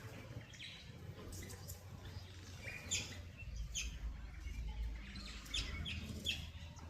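A flock of birds feeding on swarming termites, giving short, sharp chirps over and over, more often in the second half. A low rumble runs underneath from about halfway.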